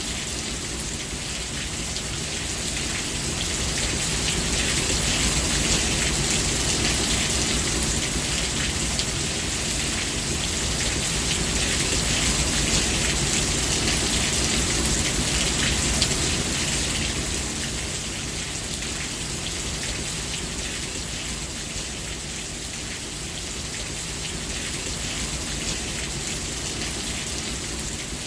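Steady heavy rain hissing and pattering, with a low rumble underneath. It swells louder for several seconds in the middle and then eases back.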